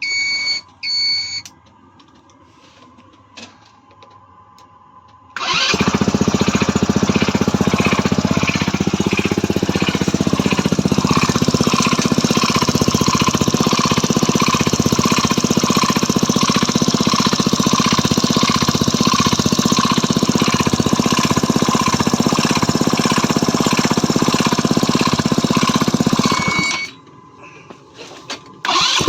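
Stels Kapitan scooter's 161QMK four-stroke engine starting about five seconds in and running for some twenty seconds with a rapid, even knocking, the engine knock whose cause the owner cannot pin down; it cuts out near the end and starts again at the very end.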